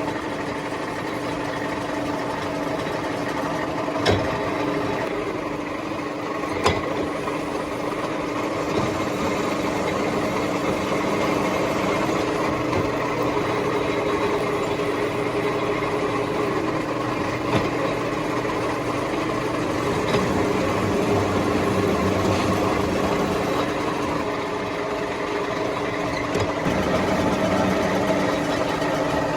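Metalworking machine running steadily with a constant hum, and two sharp clicks about four and seven seconds in.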